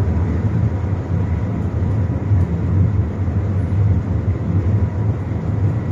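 Steady low rumbling ride noise inside the cabin of the Shanghai Maglev train running at about 300 km/h.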